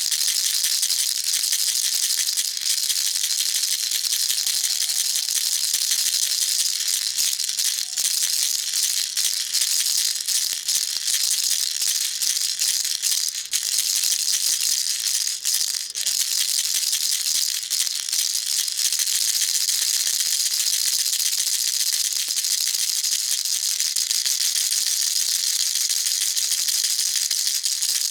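Baby rattle shaken continuously, its beads making a dense, steady high-pitched rattle without pauses.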